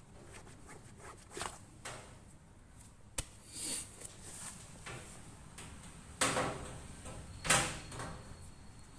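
Handling noises of washing-machine parts being fitted by hand: a sharp click about three seconds in and several brief scrapes and knocks, the loudest two about six and seven and a half seconds in.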